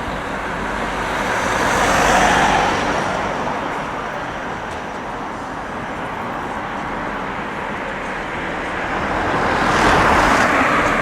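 Road traffic going by close at hand, a steady rush of tyres and engines. Two vehicles pass nearest, one swelling and fading about two seconds in and another near the end.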